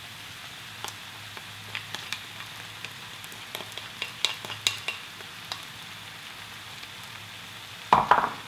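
Pork belly and kimchi sizzling steadily in a skillet, with scattered pops and crackles; a brief louder sound comes near the end.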